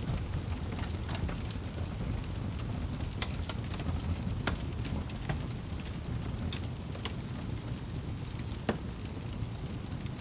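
Wood fire crackling in a fireplace: a steady low rumble under frequent sharp crackles and pops, with the loudest pop near the end.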